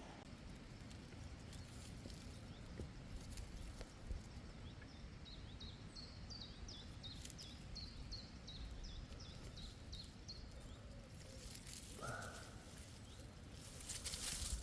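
Outdoor meadow ambience with a steady low rumble, over which a small bird sings a run of quick, high, falling notes for about five seconds from a few seconds in. A brief lower call comes near twelve seconds, and a louder rustling swish comes near the end.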